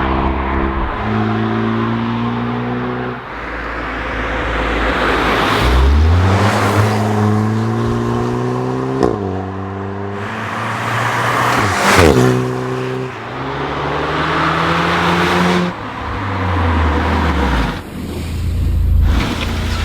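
VW Polo V GTI with a REMUS stainless cat-back exhaust, accelerating hard: the engine note climbs, drops back at each gear change and climbs again, several times over. A short sharp pop sounds at two of the shifts, about nine and twelve seconds in.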